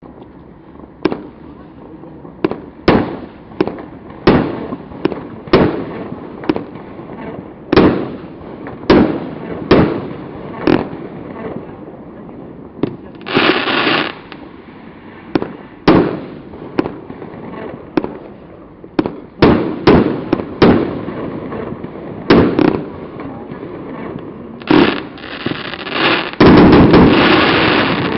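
The Aladdin firework firing a string of shots, each a sharp bang, roughly one a second. Near the middle there is a brief rush of crackle, and near the end a dense, loud run of rapid bursts.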